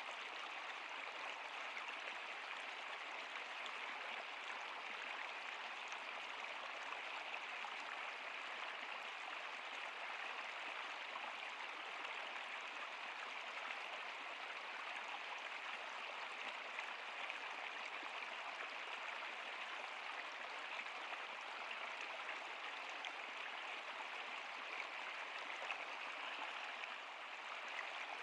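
Stream water flowing in a steady, even rush with no change or break.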